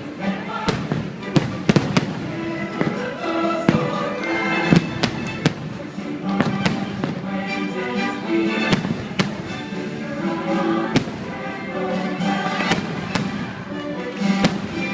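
Fireworks going off, a dozen or more sharp bangs at irregular intervals, some in quick pairs, over music playing throughout.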